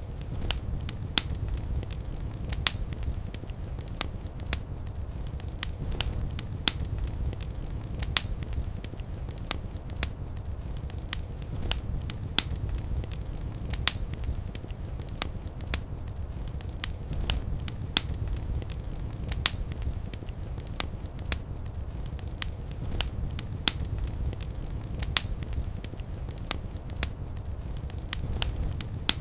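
Wood fire in a fireplace crackling, with frequent sharp pops over a low, steady rumble of the flames.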